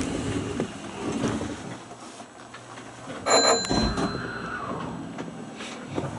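Electric train's sliding doors closing, with a loud sudden clunk a little over three seconds in as they shut.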